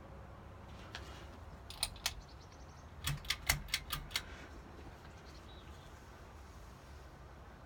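Sharp clicks from a Hampton Bay San Marino ceiling fan's pull chain and switch: two clicks, then a quick run of about six, over a low steady hum.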